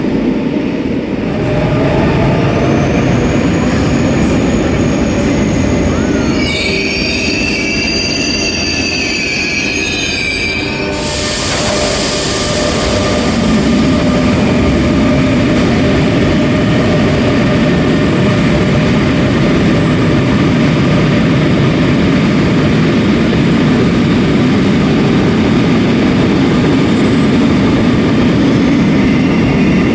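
RER A double-deck electric train running with a steady rumble. Wavering high wheel squeals come in for a few seconds, then a sudden loud hiss starts about eleven seconds in and holds.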